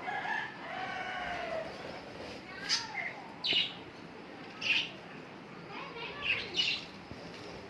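Budgerigars chattering: a warbling run over the first two seconds, then about five short, sharp chirps.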